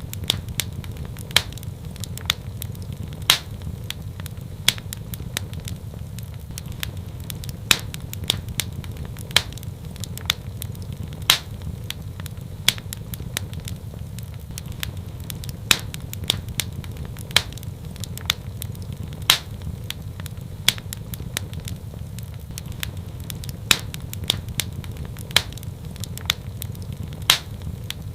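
Fireplace fire crackling: a steady low rumble of flames under many sharp, irregular pops and snaps, the loudest coming every second or two.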